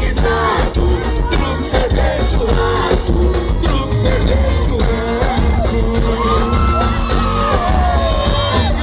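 Live amplified performance of a sertanejo song: voices singing over a band with a steady, heavy bass beat, with a few shouts from the crowd.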